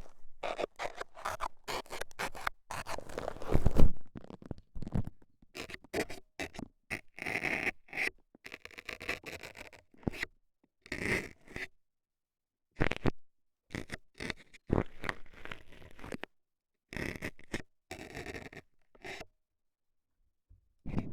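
Metal dental scaler scraping and poking inside a microphone's ear, in irregular short strokes with brief silent pauses between them, the longest a little over halfway through and near the end.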